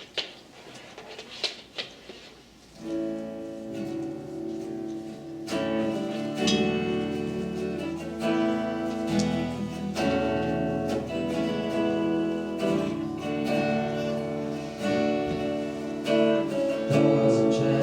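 Worship-band music: after a few faint clicks, a strummed guitar-led instrumental passage comes in about three seconds in and grows fuller a couple of seconds later, with singing starting right at the end.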